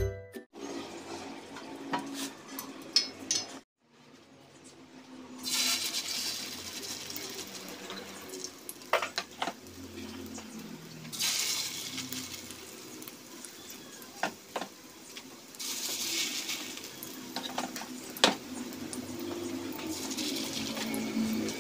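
A spoon stirring a beef loaf and flour mixture in a bowl. After that, spoonfuls of the mixture go into a frying pan of hot oil: the oil sizzles up in a fresh hiss with each portion, about four times, with a few sharp taps of the utensils against the pan in between.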